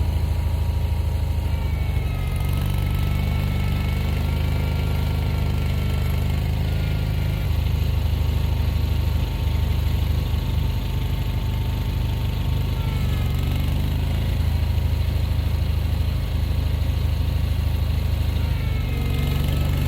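Gasoline engine of a snow-plowing vehicle running steadily, its pitch easing up and down every few seconds as it works.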